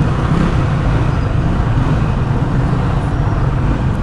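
Yamaha NMAX 155 scooter's single-cylinder engine running steadily under way, with a constant rush of road noise over it.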